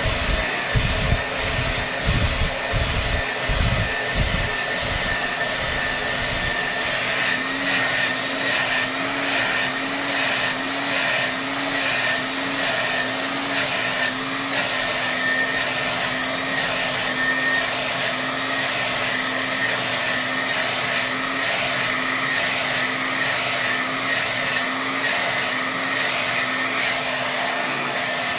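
Hair dryer blowing at full power, a constant rush of air with a motor whine. For the first several seconds low rumbling gusts come and go. After that it settles into a steady rush whose whine wavers about twice a second.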